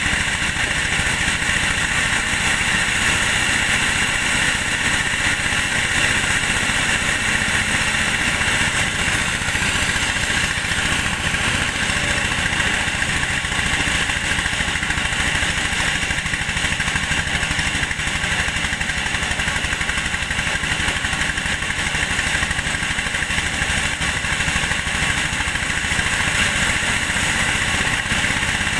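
Engine-driven corn thresher running steadily, its engine and threshing mechanism going without a break.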